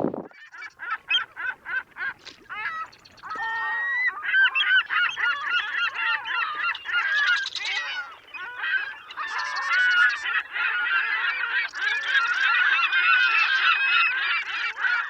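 A flock of geese honking: separate calls at first, then from about four seconds in a dense chorus of many overlapping honks.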